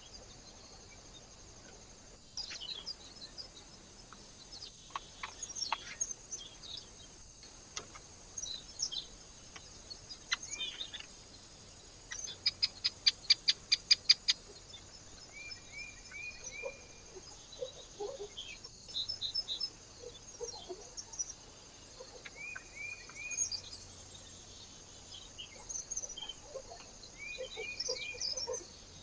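Small birds calling and chirping, with a loud, rapid run of about a dozen sharp high notes, about five a second, near the middle. Short three-note chirps repeat a few times.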